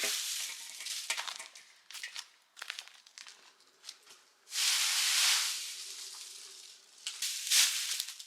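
Dry material crunching and crinkling by hand at a campfire, a run of sharp irregular crackles with a longer rustling hiss about four and a half seconds in.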